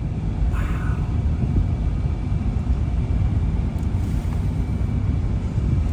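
Steady low rumble and road noise of a truck driving along.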